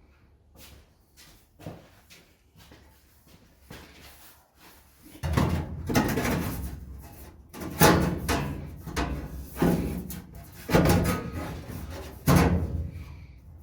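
Faint clicks, then from about five seconds in a run of loud, irregular metal clunks and rattles, about five strong ones: a loose sheet-metal panel being handled and fitted into a truck cab.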